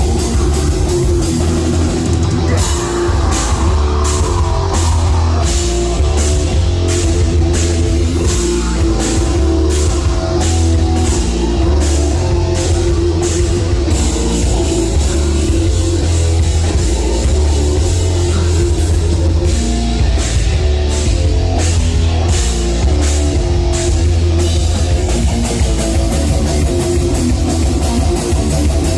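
A live heavy metal band playing loud, with distorted guitars and a drum kit. For long stretches the drums keep an even pulse about twice a second.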